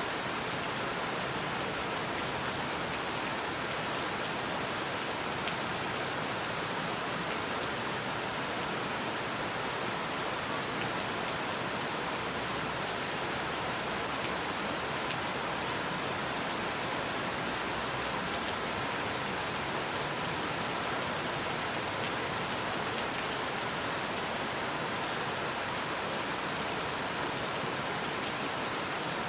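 Steady rainfall with fine, sharp drop ticks scattered through it, unchanging throughout.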